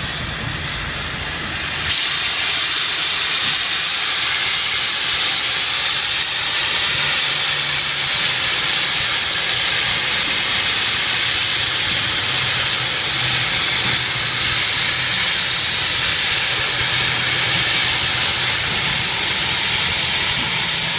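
2-8-0 steam locomotive venting steam: a loud, steady hiss that starts suddenly about two seconds in and holds without a break, with a weaker low hum beneath it.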